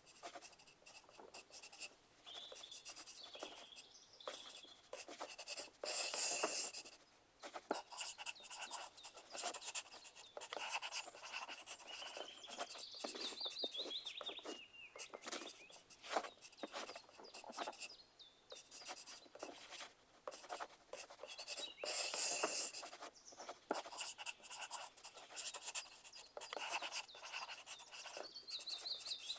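Pencils scratching on paper in quick, irregular strokes, as in an exam hall full of people writing. Twice there is a louder, sharper scratching burst.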